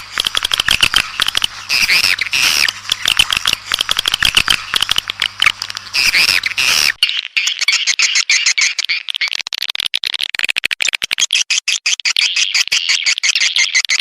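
Swiftlet lure calls: rapid, dense trains of chittering twitters repeated over and over. About seven seconds in, a low hum underneath drops out and the twittering turns thinner and faster.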